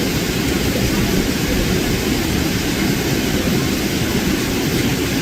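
Heavy rain pouring steadily, a dense, even hiss with a strong low rumble.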